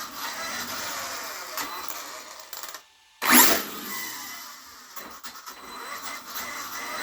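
Arrma Mojave EXB RC truck's motor and drivetrain whirring under throttle, with a differential slipping inside. The noise drops out briefly, then comes back with a sharp loud burst about three seconds in.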